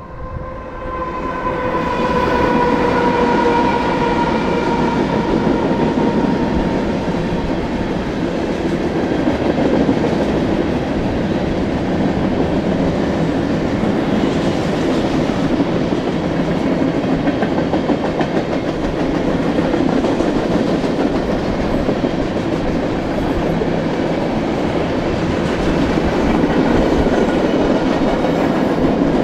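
Diesel freight train horn sounding at the start, its pitch slowly falling as it fades over the first few seconds. Then the steady rumble and clickety-clack of freight cars rolling past on the rails.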